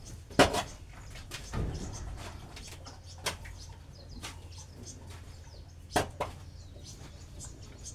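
A few scattered knocks and thuds, the loudest about half a second in and a close pair near six seconds, with birds chirping faintly in the background.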